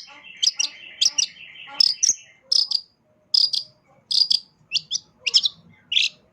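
Long-tailed shrike (cendet) singing a varied song of short, sharp high notes, about two a second. A dense buzzing trill runs beneath the notes for roughly the first two seconds.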